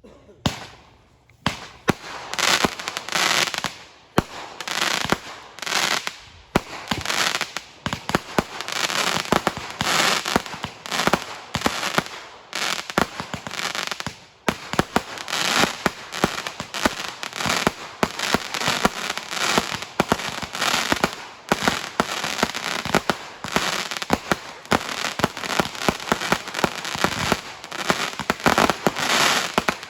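Fireworks going off in a dense, continuous barrage: rapid overlapping bangs and firecracker-like crackling, starting suddenly and swelling repeatedly.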